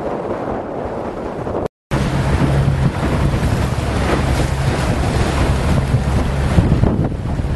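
Strong wind buffeting the microphone over the rush and splash of water around a Wayfarer sailing dinghy under way. The sound cuts out for a moment about two seconds in, then returns with a heavier low wind rumble.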